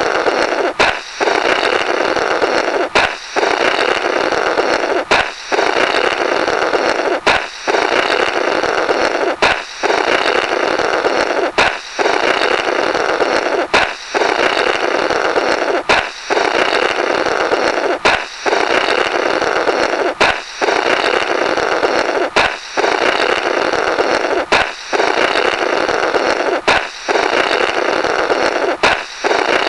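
Comical 'blorrrt' sound effect looped over and over: a sharp balloon pop followed by a rasping blow through the burst rubber. It repeats about every two seconds.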